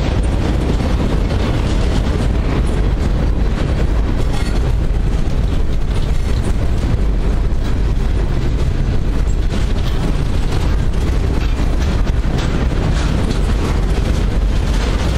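Freight train cars (autoracks, boxcars and a centerbeam flatcar) rolling past at close range: a steady, loud noise of steel wheels running on the rails, with light scattered clicks.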